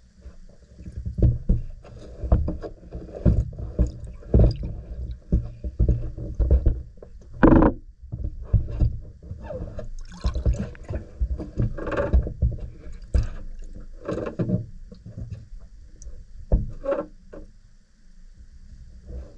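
Irregular rustling and knocking of objects being handled close to the microphone, with a sharper knock about halfway through.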